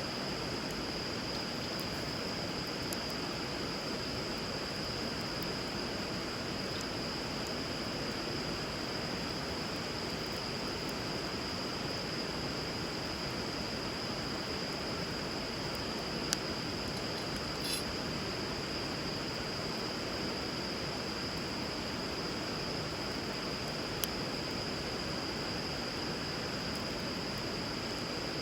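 Steady rush of flowing river water with a constant high-pitched whine over it, and a few sharp crackles from the burning wood fire more than halfway through.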